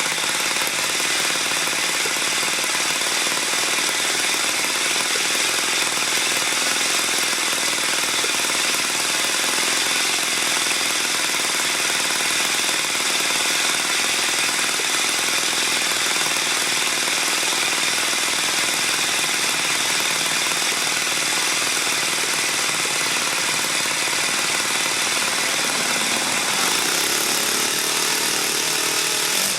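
Enya 80-4C four-stroke model-airplane glow engine running steadily at a constant throttle.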